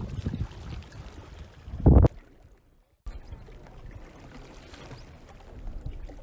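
Water noise from kayaking, with a loud thump about two seconds in; the sound drops out briefly and returns as a quieter, steady water noise.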